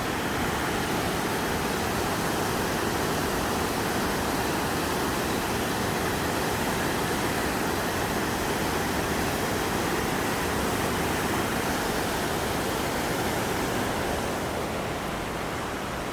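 A mountain stream swollen by typhoon rain, its floodwater rushing in a steady, loud wash of noise that eases slightly near the end.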